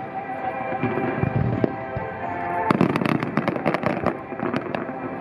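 Aerial fireworks bursting in rapid succession, with a dense cluster of bangs a little past halfway, over music playing along with the show.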